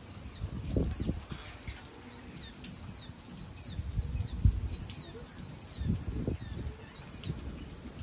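A small bird chirping over and over, about two short high chirps a second, over irregular low gusts of wind buffeting the microphone.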